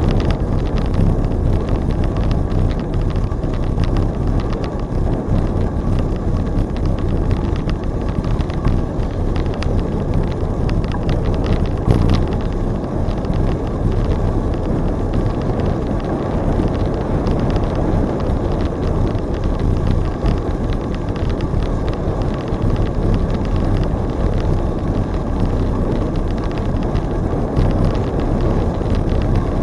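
Wind rushing over the microphone during a bicycle ride, a steady low rumble. A single brief knock about twelve seconds in.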